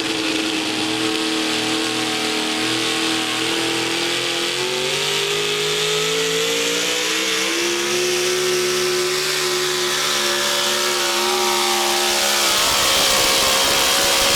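Modified 4x4 pulling truck's engine at full throttle, pulling the sled down the track, its pitch slowly climbing as the run goes on. The engine note thins out near the end.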